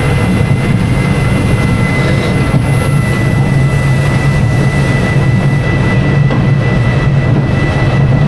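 Schwarzkopf Jumbo Jet roller coaster running: a steady, loud low rumble of the ride's machinery and wheels on track, with a thin steady whine above it.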